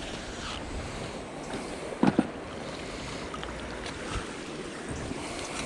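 Steady outdoor wind and water noise on the microphone, with a brief double knock about two seconds in.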